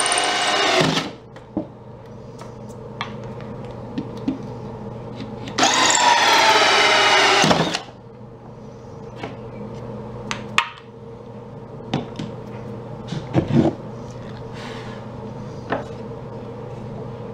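Power drill running in two bursts, one ending about a second in and one of about two seconds midway that winds down in pitch as it stops, working screws into the table's wooden supports. Light clicks and knocks of handling come between the bursts.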